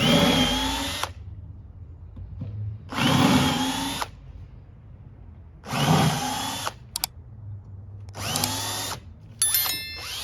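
Power drill with a countersink bit cutting countersinks into half-inch plywood, in four short bursts of about a second each, the motor pitch rising as each burst starts. A few sharp clicks near the end.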